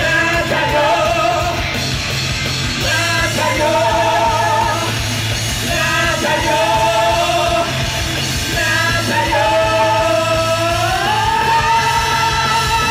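Live rock band playing a musical number, with a melody of long held notes that glides upward near the end.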